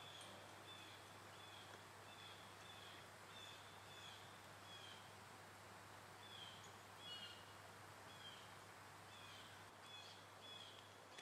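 A small bird calling faintly outdoors: short high chirps every half second to a second, some in pairs, with a pause about halfway through. Under them is a quiet steady background hiss.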